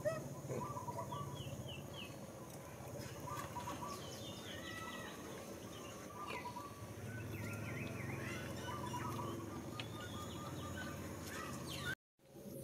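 Birds chirping in short, quick strings of calls over a steady low hum of outdoor ambience, with a brief dropout near the end.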